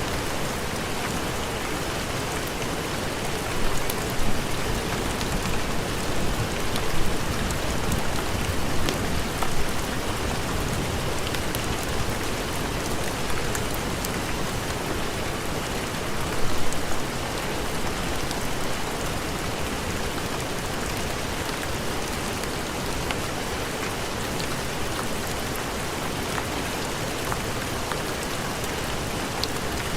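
Heavy rain falling steadily in a dense, even hiss, with a few brief louder swells in the first twenty seconds.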